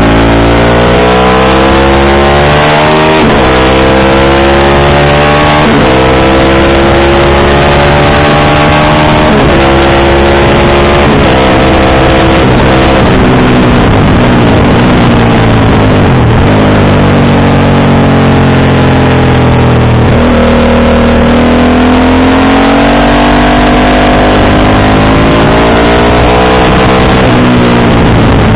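Motorcycle engine accelerating through the gears: the pitch climbs and drops back with each upshift, every two to three seconds at first. Later it slows with a falling pitch and then picks up and rises again.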